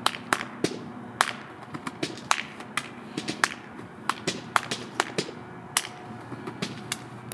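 Body percussion: an uneven run of sharp slaps and claps, several a second.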